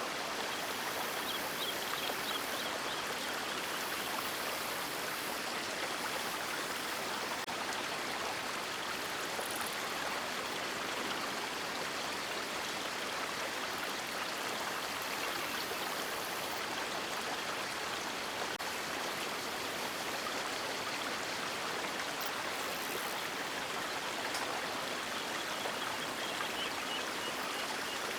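River water rushing and splashing in a steady, unbroken stream.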